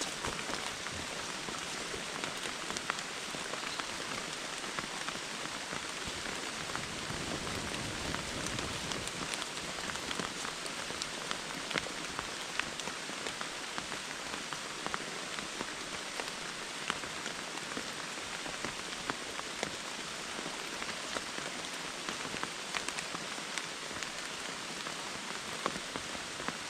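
Heavy rain falling steadily, with many individual drops ticking sharply on top of the even hiss of the downpour.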